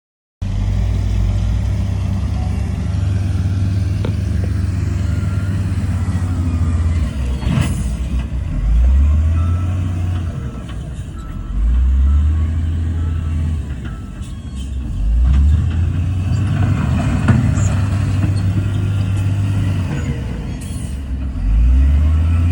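Heavy earthmoving machine's diesel engine running under load, its low drone rising in pitch several times as it is revved up and eased off.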